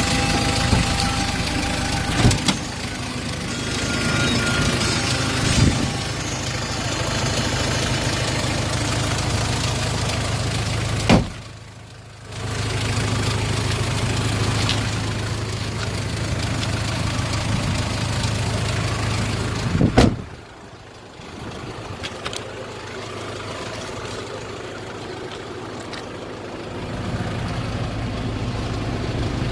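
Hyundai Grace van's 2.5-litre turbo diesel engine idling steadily. Two sharp knocks, about halfway and about two-thirds of the way through, are each followed by the running sound dropping to a quieter level.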